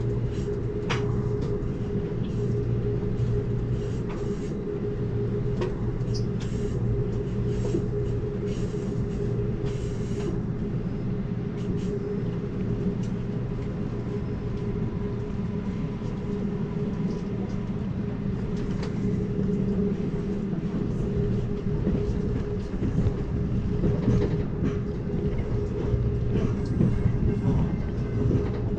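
Amtrak Cascades Talgo passenger train running along the track: a steady rumble and hum, with scattered clicks and knocks from the wheels on the rails.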